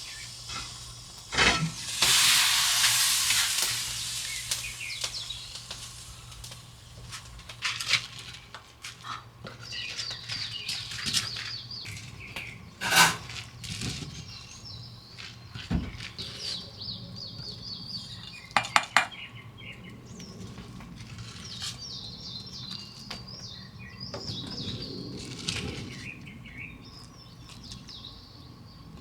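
Dishes and cooking utensils clinking and knocking, with a loud hiss for about two seconds near the start, and birds chirping.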